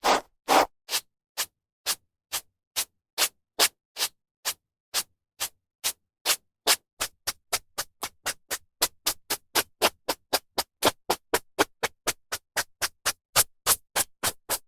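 A brush drawn through hair in quick, separate strokes, each a short scratchy swish. They come about twice a second at first and speed up to about four a second in the second half.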